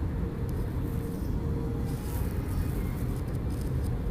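Airbus A321 cabin noise on approach: a steady low rumble of engines and rushing air, with a faint steady whine underneath.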